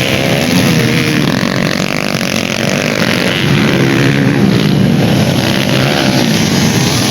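Several dirt bike engines revving at once, their pitch rising and falling as they accelerate and ease off.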